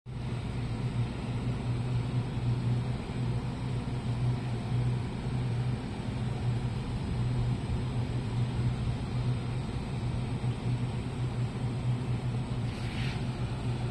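Electric multiple-unit commuter train running with a steady low hum. A brief hiss comes near the end.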